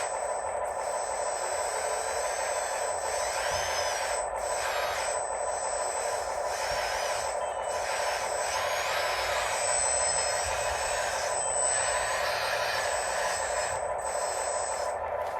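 Radio-controlled model excavators, dump trucks and a loader working, their small electric motors giving a steady whine with higher whines that rise and fall as the machines move.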